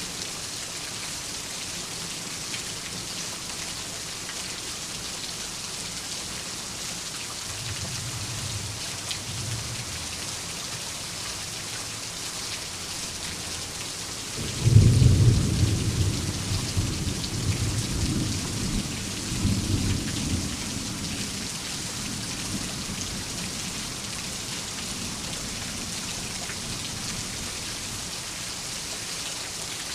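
Steady heavy rain falling, with a faint rumble of thunder and then, about halfway through, a loud clap of thunder that rolls on for several seconds before fading.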